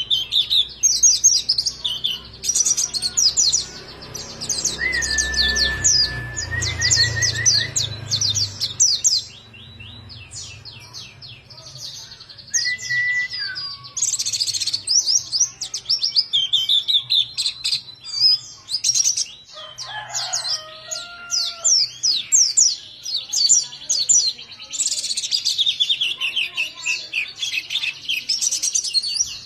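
White-eye (pleci) singing vigorously: long, fast runs of high-pitched twittering chirps with short breaks, and a few lower, longer whistled notes here and there.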